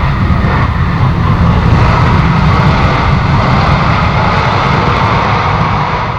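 Jet airliner's engines heard close by, a loud, steady noise with a deep rumble underneath.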